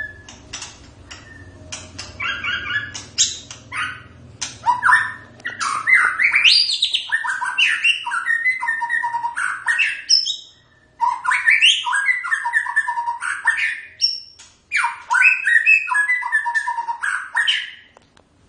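White-rumped shama singing: sharp clicks and short calls at first, then three bursts of loud, rapidly varied whistled phrases, broken by short pauses about ten and fifteen seconds in.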